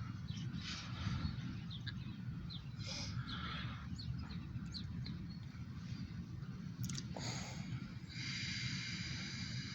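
Low, steady rumble of a diesel freight train moving slowly, with scattered short squeaks. About eight seconds in, a steady high-pitched metallic squeal starts.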